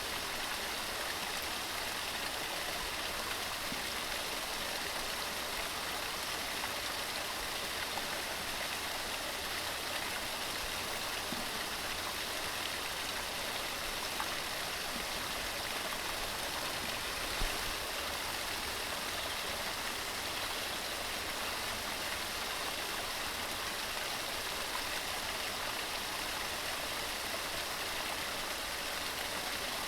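Waterfall: water tumbling over rocks in a steady, even rush. A small low thump about 17 seconds in.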